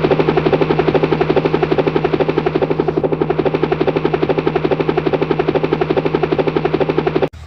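Toy helicopter running: a fast, steady chopping pulse over a constant hum, cutting off suddenly near the end.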